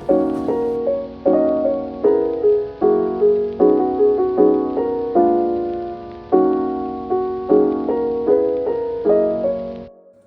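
Background music: a piano playing soft chords, each struck and fading, about one or two a second. It cuts off near the end.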